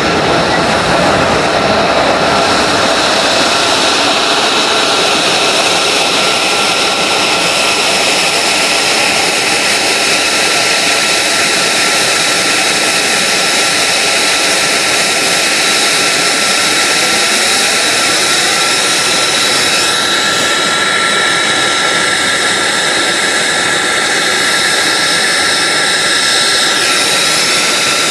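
F-35A Lightning II's single F135 turbofan running steadily, a loud jet roar with a high, steady whine.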